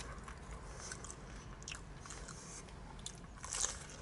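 Chewing and biting into battered fried whiting, with faint crackles from the crisp coating and a louder crunch about three and a half seconds in.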